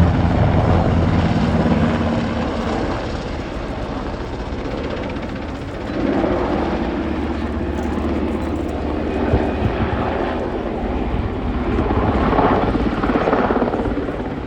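Black Hawk helicopter flying past, its main rotor and turbine engines making a steady low drone. It is loudest at the start, fades in the middle, then grows louder again to a second peak near the end.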